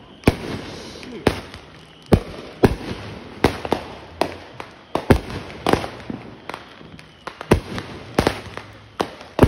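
Aerial fireworks bursting overhead: a string of sharp bangs, about one to two a second and irregularly spaced.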